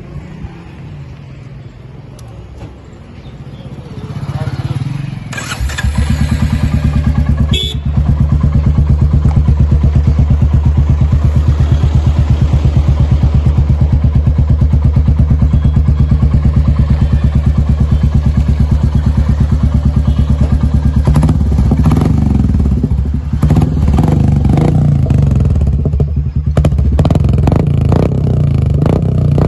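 Royal Enfield 349 cc single-cylinder engine running through an aftermarket straight-shot exhaust with a decat pipe. It comes in loud about five seconds in and settles into a steady idle with an even, deep pulse. In the last several seconds it is blipped a few times.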